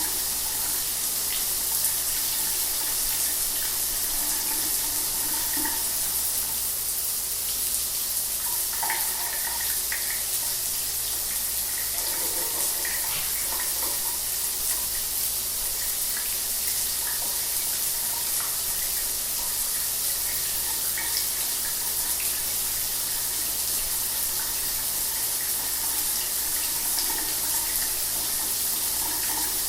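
Shower running steadily, water spraying and splashing with small irregular splatters.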